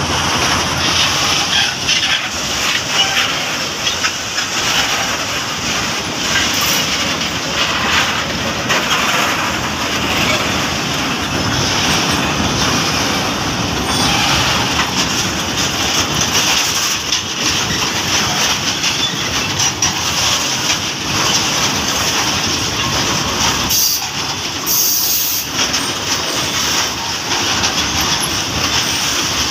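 Container flatcars of a long freight train rolling past close by: a steady rumble of steel wheels on the rails with a run of repeated clicks as the wheels pass over the rail joints.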